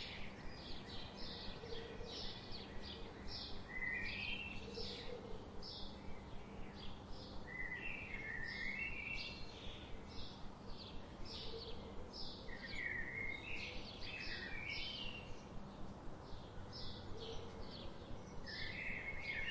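Songbirds singing: a steady series of short high chirps, two or three a second, with a lower twittering phrase that rises in pitch recurring every four or five seconds.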